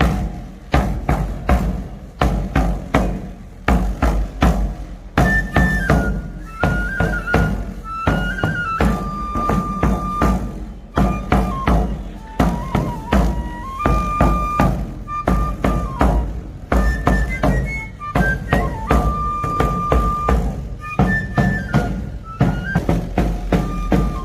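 Pipe and tabor: a high three-hole pipe plays a stepping traditional melody over steady, rapid strokes on the tamboril drum, played together by one tamborilero.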